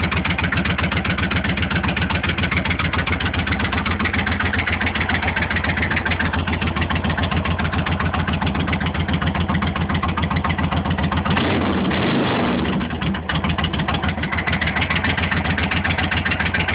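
Suzuki Intruder 1400's V-twin idling with a loud, lumpy beat through Cobra Drag pipes with the baffles removed, with one quick blip of the throttle about two-thirds of the way through before it settles back to idle.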